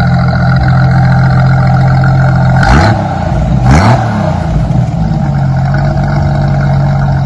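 1988 Jeep Wrangler's 4.2-litre inline six idling through a Flowmaster Outlaw muffler and single side-exit exhaust, blipped twice, about three and four seconds in, each rev rising and falling quickly before it settles back to a steady idle.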